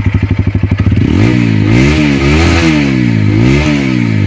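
TVS Apache RTR 160 4V's single-cylinder four-stroke engine through its stock exhaust, idling with an even pulse, then revved in a run of quick throttle blips from about a second in, each rising and falling back, before settling toward idle near the end.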